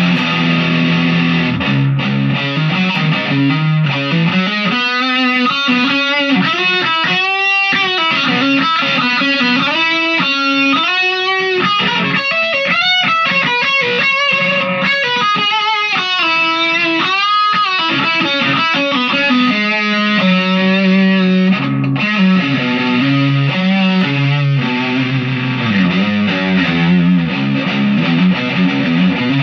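Chapman SAR63 electric guitar played with an overdriven tone: chord riffs, then a lead passage full of string bends through the middle, returning to low chord riffs near the end.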